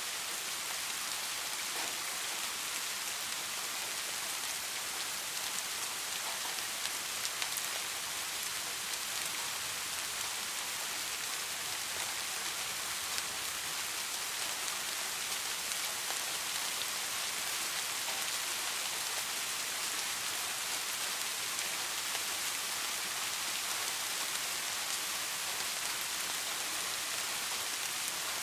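Steady rain falling, an even high hiss with scattered individual drops ticking on a surface.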